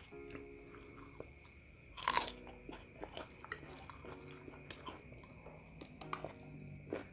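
Close-up crunching and chewing of crispy crackers eaten with fried rice: one loud crunch about two seconds in, then smaller crunches and mouth clicks as the mouthfuls are chewed.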